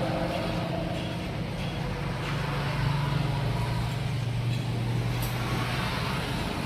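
A motor vehicle's engine running, a steady low hum whose pitch sinks a little about halfway through.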